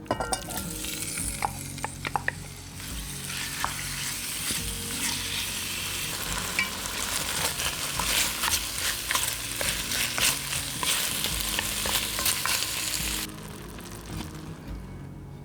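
Food frying in hot oil in a pan: a steady sizzle with constant crackling and pops while it is stirred, with a few knocks early on. The sizzle cuts off sharply about two seconds before the end.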